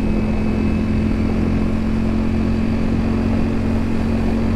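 Ducati Streetfighter V4 superbike's V4 engine running at a steady cruising speed on the road, with a steady engine note and a constant rush of wind and road noise.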